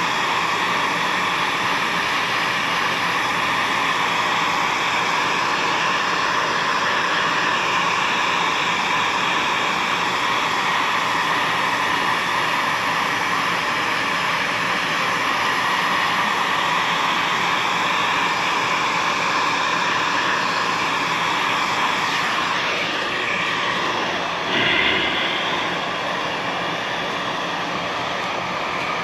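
Loud, steady motor or blower noise, like a machine's fan running. It thins out about 22 seconds in, with a brief louder burst a few seconds later.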